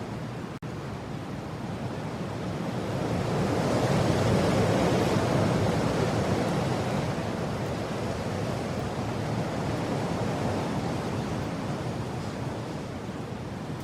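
Strong mountain wind blowing in a gust that swells over a few seconds and then slowly eases, with a brief cut-out in the sound about half a second in.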